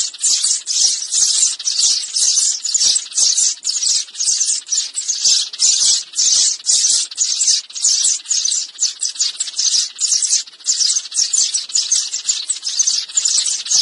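Sparrows chirping without a break, a dense run of short high-pitched chirps, several a second.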